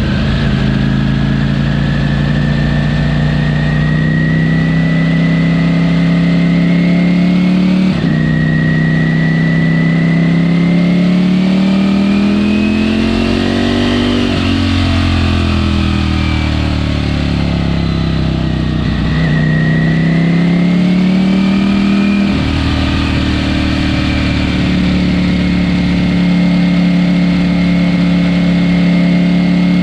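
Ducati Panigale V4S's V4 engine on the stock exhaust, heard while riding: its pitch climbs, drops sharply at a gear change about eight seconds in, climbs again, then falls and rises through further shifts before settling into a steady cruise.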